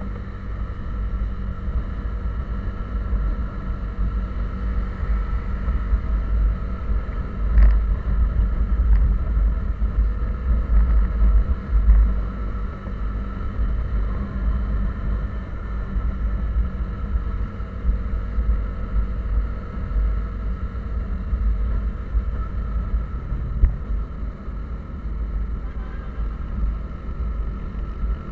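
A vehicle engine running steadily while driving: a constant drone over a heavy low road and wind rumble.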